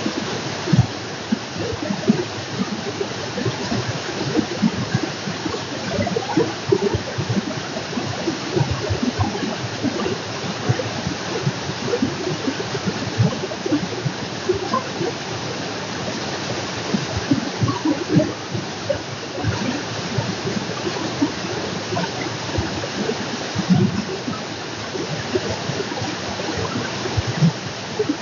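Water in a stream running over rocks: a steady rush with many small splashes and gurgles throughout.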